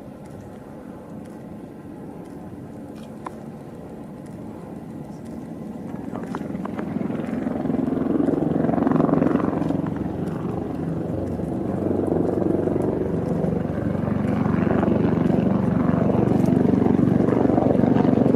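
Avalanche rumble: a low roar that builds from about six seconds in and stays loud and steady as the snow mass comes down toward the onlookers.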